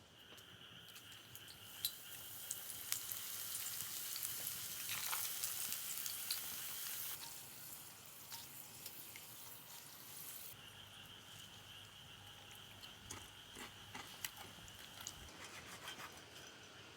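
Food sizzling in hot oil in a pan, a hiss with small sharp crackles that swells and then falls away about seven seconds in. A steady high tone and scattered faint ticks continue after it.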